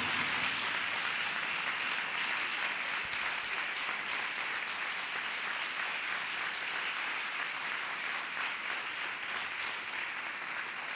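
Congregation clapping and applauding steadily, tapering off slightly near the end.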